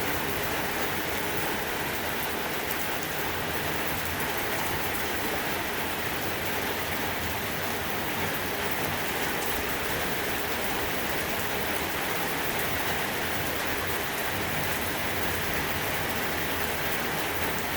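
Heavy rain pouring steadily in a thunderstorm, an even hiss of rain without a break.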